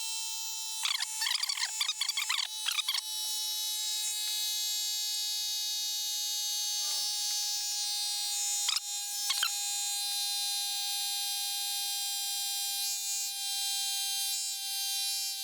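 A battery-powered tire inflator's compressor runs while pumping up a motorcycle tire to 2.5 bar, played sped up as a high, steady, buzzing tone that sags a little in pitch toward the end. There are two short clicks around the middle.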